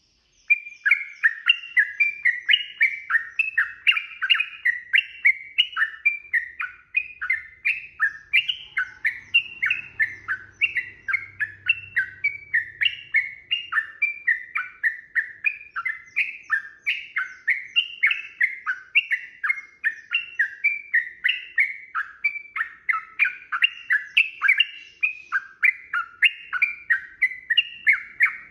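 Yellow-vented bulbul (trucukan) singing a long, unbroken run of quick warbling notes, about three a second, starting about a second in.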